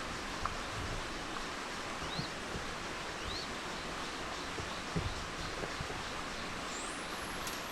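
Steady outdoor forest ambience: an even hiss, with two faint short rising chirps a few seconds in, a few soft low knocks, and a rising whistle near the end.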